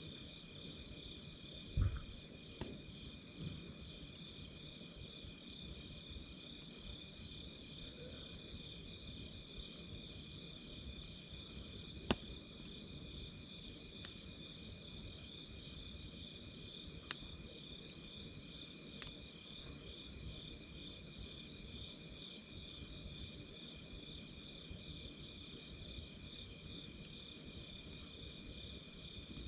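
Crickets chirping in a steady pulsing trill, with a campfire crackling underneath: a handful of sharp pops spread through, a low thump about two seconds in and a loud snap about twelve seconds in.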